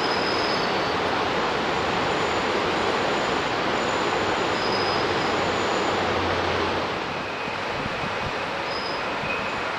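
BVZ narrow-gauge passenger train running along the line, a steady rushing rumble of wheels on rails with a few faint short high squeals. The sound changes and drops a little about seven seconds in.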